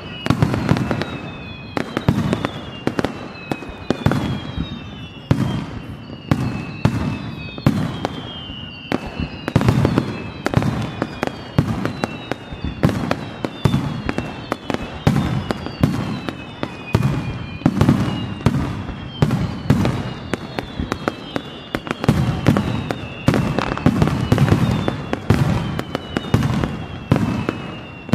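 Fireworks display by Takada Hanabi Kogyo: aerial shells bursting in rapid succession with sharp bangs, overlaid by a string of whistles that each glide downward in pitch.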